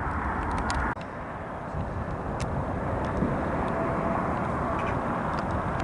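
Embraer E195 airliner's jet engines heard outdoors as a steady rumble and hiss, with a brief dropout about a second in.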